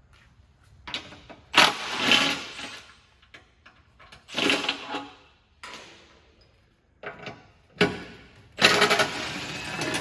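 Skid plate bolts being loosened with a socket wrench, in several short mechanical bursts of about a second each.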